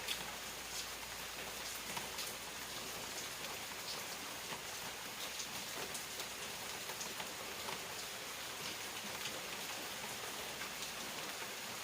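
Steady rain falling: a constant hiss with many single drops ticking sharply on a surface at irregular moments.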